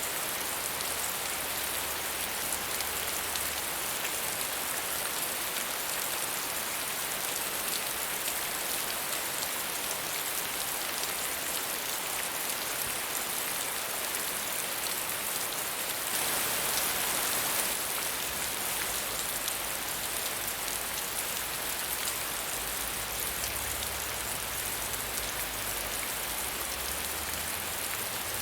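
Steady, medium rainfall falling on surfaces, a continuous even hiss with pattering drops, swelling briefly a little past the middle.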